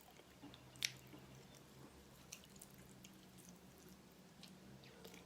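Near silence: room tone with a faint low hum and a few faint scattered clicks, the clearest about a second in.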